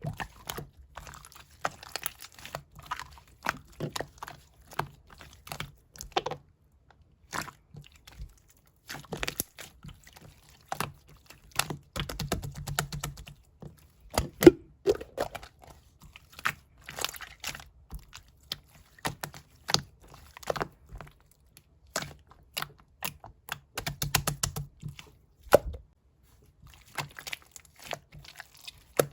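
Slime being squished and pressed by hand, making a string of irregular small clicks and pops, thicker in a couple of short runs.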